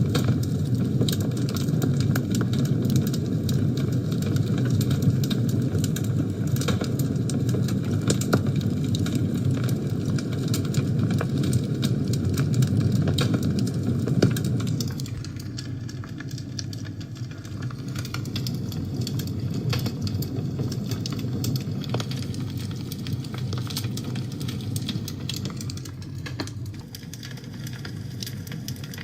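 Fire burning in a fireplace: a steady low rush from the flames with many small crackles and pops. The low rushing drops noticeably about halfway through, while the crackling goes on.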